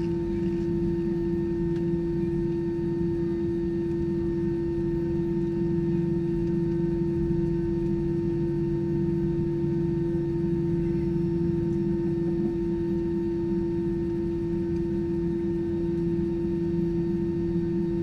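Steady cabin drone inside an Airbus A320, the hum of engines and air systems. It carries one strong unchanging tone with a lower rumble under it.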